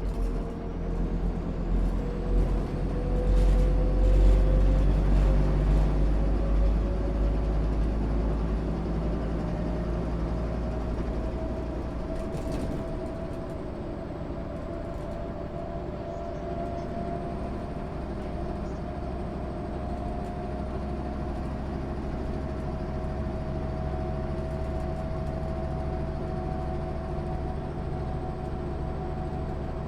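MAN SÜ 272 bus under way: a diesel engine rumble, loudest over the first ten seconds or so, with a drivetrain whine that rises in pitch for about fifteen seconds and then holds steady. There are a few light rattles or clicks in the first half.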